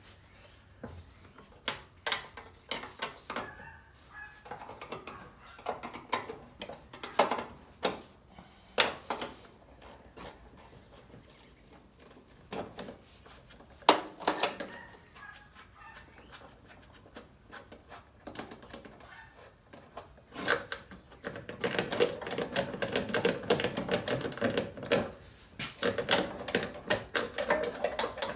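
Hand tools on metal while unbolting a Toyota AE86's clutch master cylinder: scattered clinks and knocks, then, from about two-thirds of the way in, a long run of rapid ratchet-wrench clicking.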